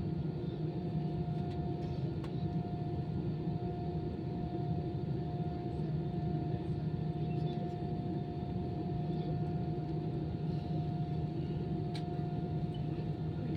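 Steady cabin drone inside an Airbus A320-214 on the ground before takeoff, with a constant whine held at one pitch over it and a couple of faint clicks, near two seconds in and near the end.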